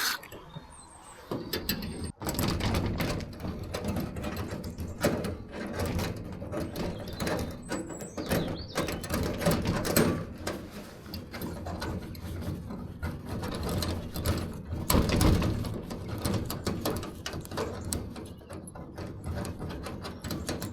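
Key being worked and jiggled in a stuck padlock: a dense run of irregular metallic clicks and rattles starting about two seconds in. The lock is seized and doesn't open, even with penetrating oil in it.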